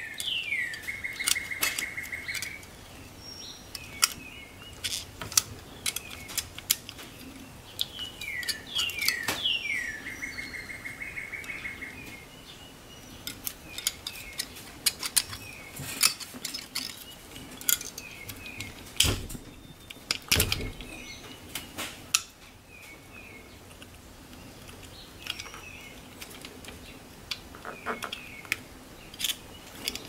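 A songbird calling: quick falling chirps followed by a fast, buzzy trill, heard twice, about a second in and again around eight to twelve seconds. Over it come small clicks and knocks of the plastic horn-button cap and wire connectors being handled at the steering wheel, with a couple of louder knocks around nineteen to twenty-one seconds.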